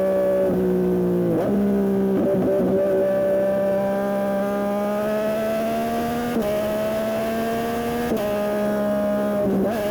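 Yamaha MT-09 SP's inline three-cylinder engine through an aftermarket Dominator exhaust, ridden hard. The engine note climbs slowly in the middle and jumps up or drops several times as the rider changes gear and works the throttle.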